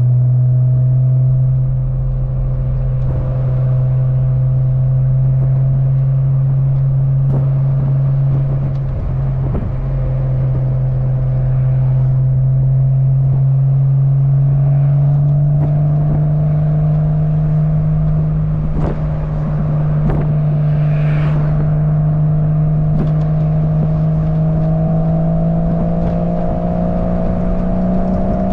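1997 Porsche 986 Boxster's flat-six engine running through an aftermarket cat-back exhaust on the move, a steady drone that climbs slowly in pitch through the second half as the revs rise. A few faint clicks from a rattling clip-on camera mount come through.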